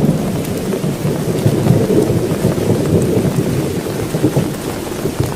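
Heavy rain pouring steadily, with a continuous low rumble of thunder underneath.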